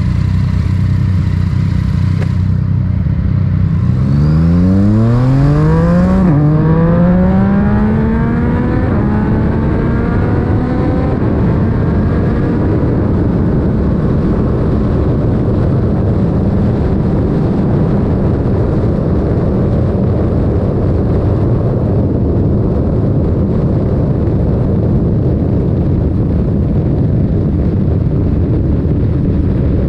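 Yamaha MT-09's three-cylinder engine through an Akrapovic titanium exhaust, running steadily, then revving up hard about four seconds in, dropping briefly at an upshift and pulling up again. After that it settles into steady cruising, mixed with a heavy rush of wind.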